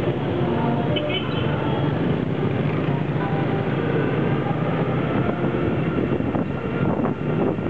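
Steady, loud street traffic heard from a moving motorbike: a low engine drone from its own and the surrounding motorbikes, with a few short high tones about a second in.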